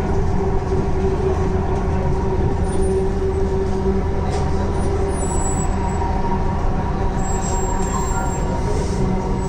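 Metro train running, heard from inside the carriage: a steady rumble with a constant hum over it.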